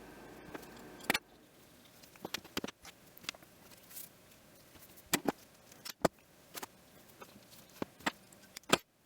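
Scattered sharp clicks and taps of pliers and side cutters working on spark plug wires, cutting them to length and crimping the terminal heads on, loudest about a second in and again just before the end.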